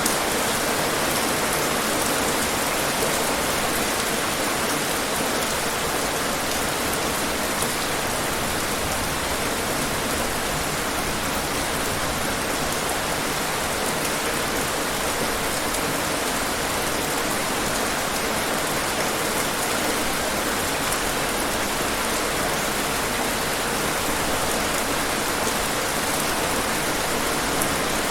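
Rain falling steadily: an even, dense hiss with fine drop ticks scattered through it.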